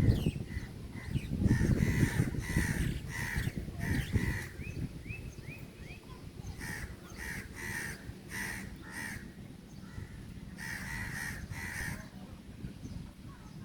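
Crows cawing repeatedly, harsh calls in quick runs with a short break around ten seconds in, and a brief series of quick rising chirps from another bird about five seconds in. A low rumble sits under the calls at the start.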